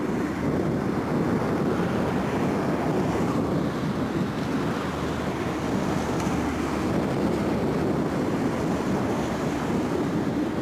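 Steady jet noise from a departing Boeing 777-300ER's twin GE90-115B engines at takeoff power, with wind buffeting the microphone.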